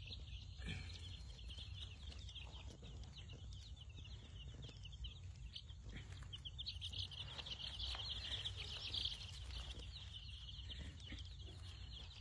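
A brooder full of young chicks peeping nonstop, many short high chirps overlapping into a constant chorus, over a steady low hum.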